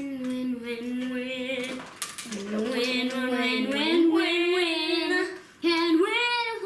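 A child singing a wordless tune in long held notes that slide up and down, with short breaks about two seconds in and again near the end.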